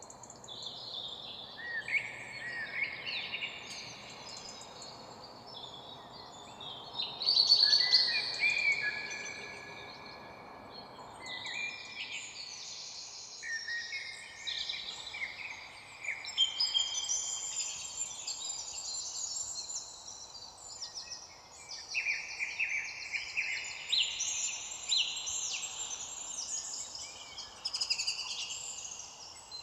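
A chorus of several songbirds singing at once: overlapping chirps, trills and short whistled phrases, the loudest burst about a quarter of the way in, over a faint steady background hiss.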